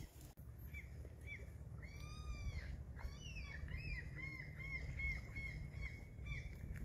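A bird calling repeatedly: a few short calls, a longer call about two seconds in, then a quick run of short calls about three a second, over a steady low rumble.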